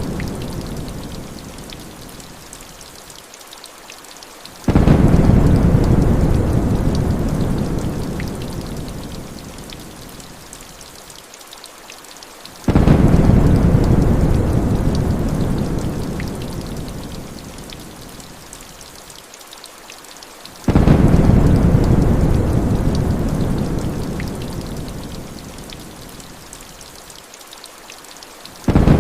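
Heavy rain hissing steadily, with thunder rumbles that break in suddenly and die away over several seconds, coming at even intervals of about eight seconds: three full rolls and the start of a fourth near the end.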